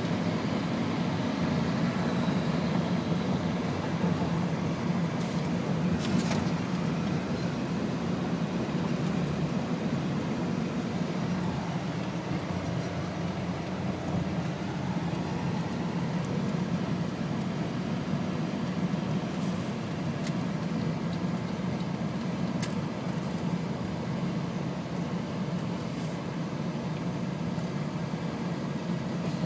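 Steady road and engine noise of a car being driven, heard from inside the cabin, with a few faint ticks.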